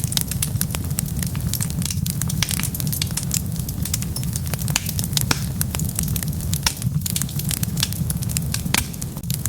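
Wood fire burning: a steady low rumble with frequent, irregular sharp crackles and pops.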